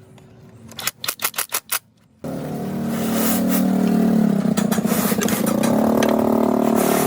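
A few sharp bursts, then a motor-driven machine starts and runs at steady speed with an even pulsing hum, its pitch sagging briefly midway as if under load before recovering.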